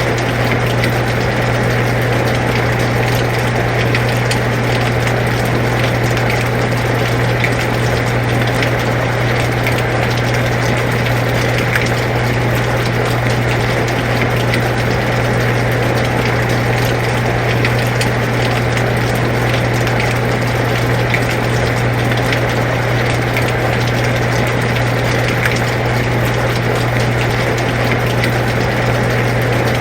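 Air conditioner running with a steady low hum, mixed with rain falling and faint raindrop ticks, unchanging throughout.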